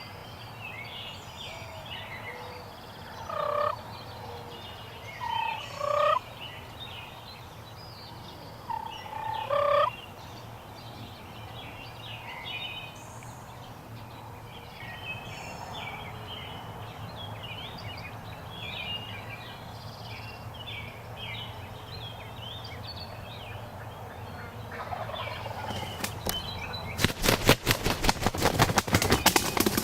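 Eastern wild turkey gobbler gobbling three times, in the first third, over steady chirping of songbirds. Near the end comes a loud, rapid run of crackling clicks.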